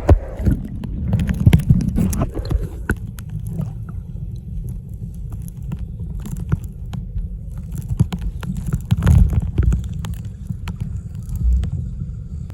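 Muffled underwater sound picked up by a phone sealed in a plastic waterproof pouch: a low churning rumble of moving seawater, broken by scattered clicks and knocks, swelling about nine seconds in.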